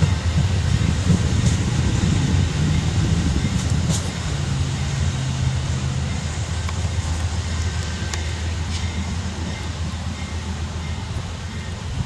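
Amtrak passenger coaches rolling past on the rails, a low wheel-on-rail rumble that slowly fades as the train pulls away, with a few faint clicks.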